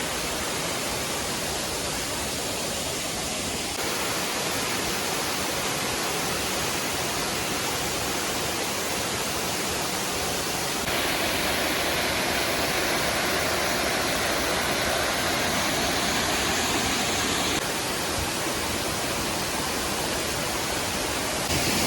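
Waterfall with a fair flow of water: a steady rush of falling water, its level stepping up and down slightly a few times.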